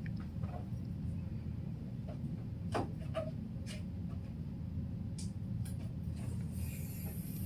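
A steady low rumble with a few faint clicks, and a high hiss coming in near the end.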